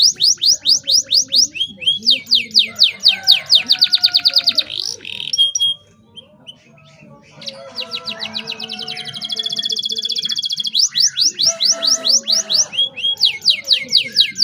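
Domestic canary singing in full song, with fast rolling trills of rapidly repeated sweeping notes. The song breaks off about five seconds in and resumes a couple of seconds later.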